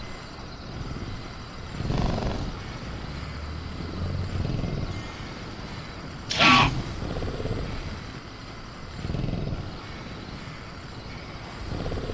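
Sound-effect velociraptor, agitated: low growls and breaths swell several times, and a short shriek glides down in pitch about six and a half seconds in. Faint crickets and damp-jungle ambience run underneath.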